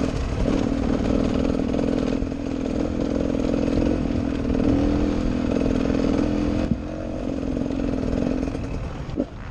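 Enduro dirt bike engine running hard under throttle, heard from the onboard camera, with a buzzing note that eases off about two-thirds of the way through, where there is a sharp click.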